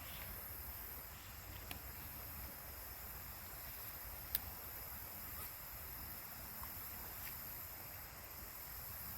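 Faint steady outdoor background noise with a few light clicks, one sharper click about four seconds in.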